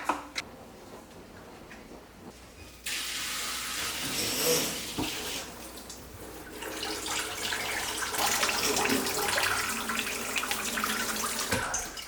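Water starts running from a tap about three seconds in and splashes steadily into a sink, its level swelling and easing, after a couple of clicks near the start.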